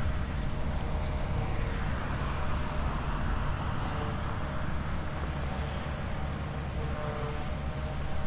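Tractor engine running steadily as it works the grass, a constant low rumble with a faint held tone.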